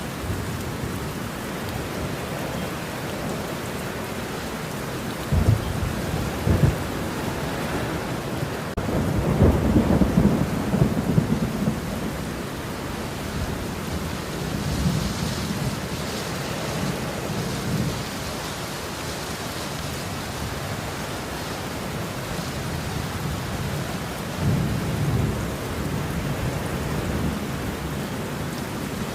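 Steady rain with thunder: two sharp cracks about five and six seconds in, then a long low rumble of thunder, followed later by further rolls.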